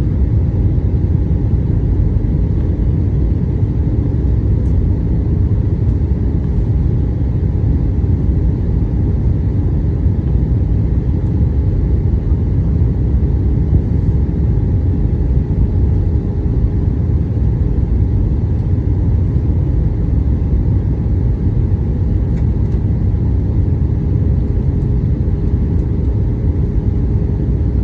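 Steady low rumble of engine and airflow noise inside an airliner cabin in flight, unchanging throughout, with faint steady hums above it.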